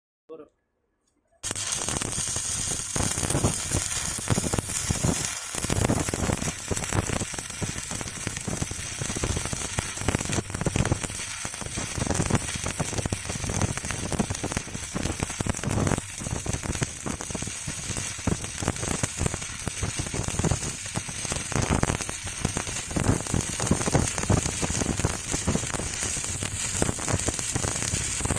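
Electric arc welding on a steel reinforcing bar: the arc crackles and sizzles steadily with dense irregular pops. It strikes up suddenly about a second and a half in, after near silence.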